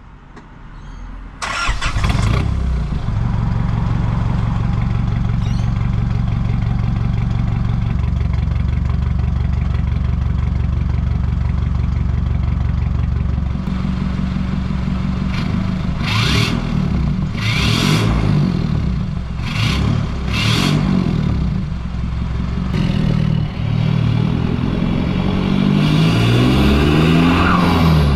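Holden Rodeo's 4JJ1 3.0-litre four-cylinder turbo diesel through a 3-inch turbo-back stainless exhaust with a high-flow cat: it starts about a second and a half in and idles steadily. In the second half it is revved several times, with short sharp blips and rising and falling revs.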